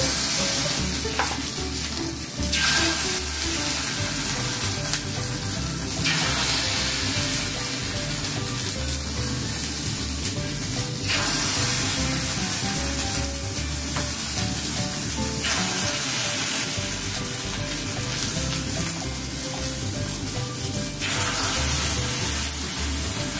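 Egg-and-flour batter with meatballs sizzling in hot oil in the cups of a metal martabak mold. It is a steady frying hiss that swells and eases several times as more batter is spooned in.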